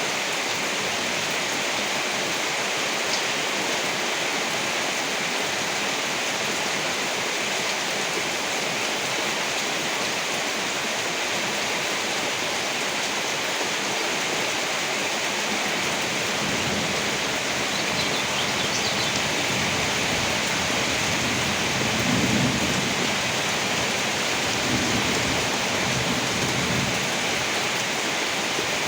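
Steady downpour of rain, a constant hiss, with low rumbles of thunder rolling in during the second half, the loudest about three-quarters of the way through.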